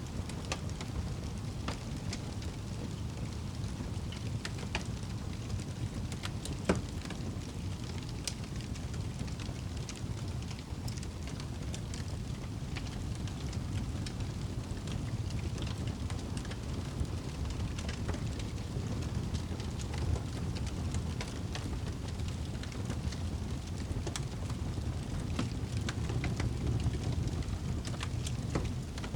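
Campfire crackling, with scattered small pops over a steady low rush and one sharper pop about seven seconds in.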